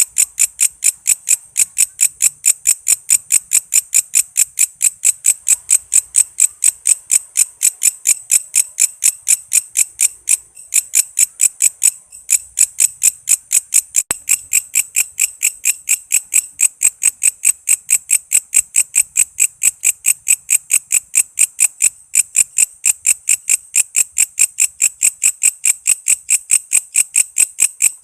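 Walang kece, an Indonesian singing insect, calling in a fast, even train of sharp, high chirps, with two brief breaks about ten and twelve seconds in.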